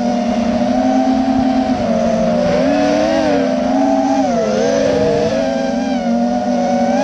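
A small motorcycle's engine heard from on board, running at high revs with its pitch rising and falling as the throttle is worked through the turns.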